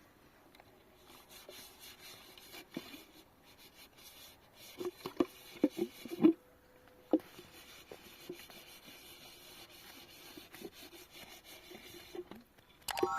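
Faint handling sounds: a cluster of light knocks and rubbing about five to seven seconds in, otherwise quiet room background.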